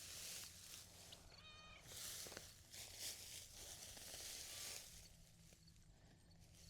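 Faint rustling and scraping of soil and mulch as potatoes are dug out by hand, with a short cat meow about a second and a half in.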